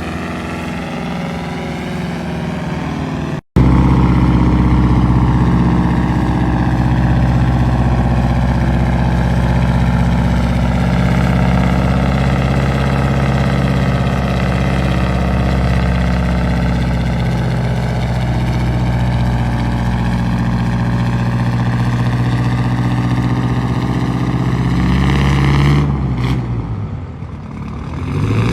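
Old Dodge 900 truck engine running steadily, with a brief break about three and a half seconds in and a louder steady note after it. Near the end the pitch and level drop, then climb again.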